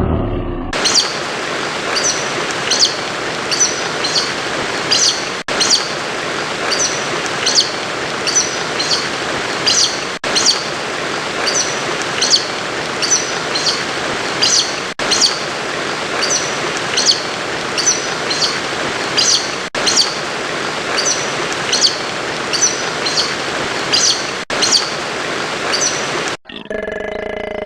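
A bird chirping over and over, about two short high chirps a second, over a steady hiss, with brief gaps every five seconds or so; it stops abruptly near the end.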